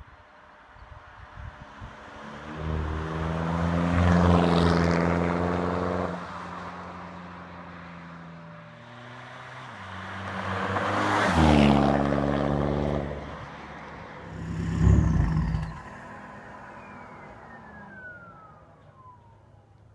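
2013 Volkswagen Passat TDI's turbodiesel four-cylinder, straight-piped with the DPF and rear muffler deleted, getting louder three times (two long surges and a short blip) and dropping back to a quieter steady run in between. A thin whistle falls steadily in pitch over the last few seconds.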